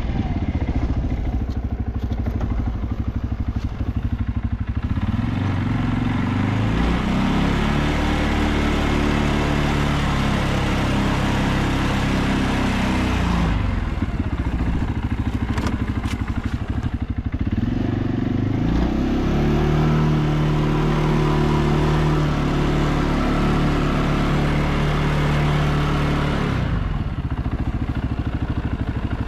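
ATV engine running as it is ridden through snow. It picks up revs twice, each time holding a steady note for several seconds before easing off.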